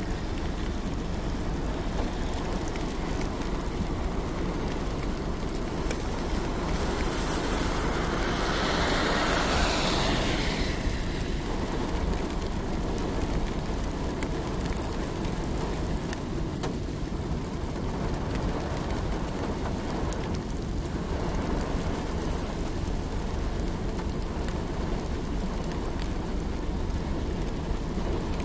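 Steady rain falling, over a low rumble. About eight seconds in a louder rushing swell builds and fades by about eleven seconds, with a smaller one near twenty seconds.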